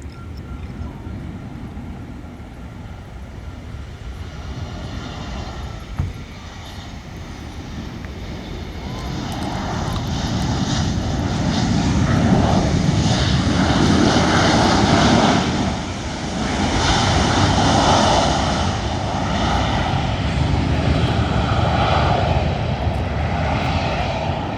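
Boeing 737-700 jet airliner's CFM56 turbofan engines on landing, the roar building from about eight seconds in, loudest near the middle, easing briefly, then staying loud with a shifting, rushing sound.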